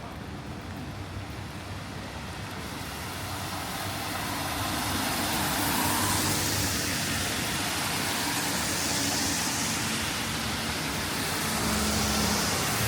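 Road traffic on a wet city street: cars passing with engine noise and the hiss of tyres on wet asphalt. It grows louder about a third of the way in, with several swells as vehicles go by.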